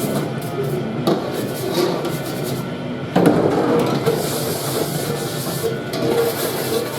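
Commercial dish station: metal wing trays clattering and knocking as they are washed, with a sharp clank about three seconds in followed by a hiss like running water for a second or two.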